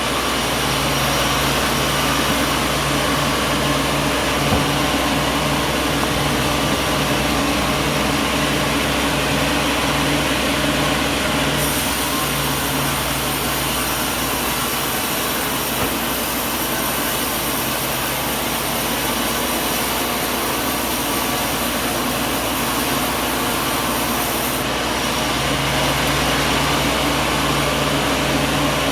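Sawmill machinery running steadily: a continuous mechanical noise with a low hum that fades out about twelve seconds in and returns near the end.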